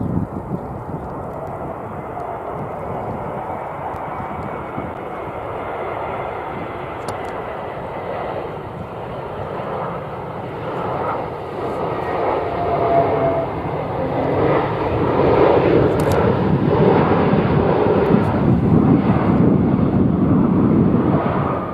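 Airbus A320neo airliner's Pratt & Whitney geared turbofan engines on a landing approach. The broad jet rush grows steadily louder through the second half as the aircraft comes in.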